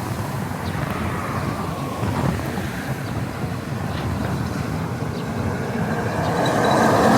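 Thunder rumbling low and continuously, with wind buffeting the microphone; the rumble swells louder near the end.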